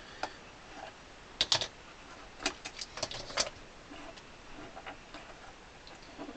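Sharp clicks and light clatter of clamps being loosened and lifted off the glued celluloid, in two short flurries about a second and a half and three seconds in, with fainter clicks after.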